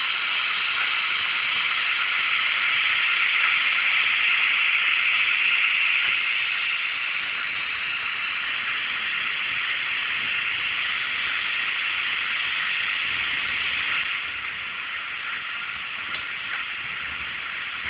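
Roco model Ce 6/8 II 'Crocodile' electric locomotive running, its LokSound 3.5 sound decoder playing a steady hissing hum through the model's small speaker. The sound swells a little a few seconds in, then settles.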